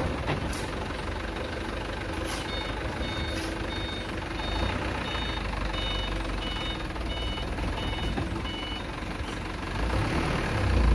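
Loaded dump truck's engine running while its reversing alarm beeps about twice a second in two alternating high pitches. The beeping starts a couple of seconds in and stops near the end.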